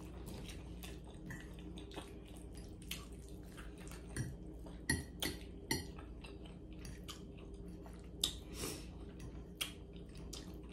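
A person chewing soft cheesy macaroni close to the microphone, with wet mouth clicks and an occasional metal fork clinking and scraping on the plate as she scoops more.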